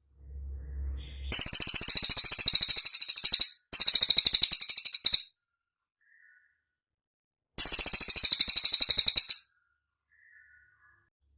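A cililin songbird sings three fast, high-pitched rattling trills. The first two run almost back to back and the third comes a couple of seconds later, after a brief low rumble at the start.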